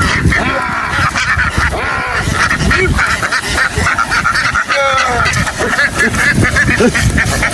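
A large flock of domestic ducks quacking together, many calls overlapping in a continuous din.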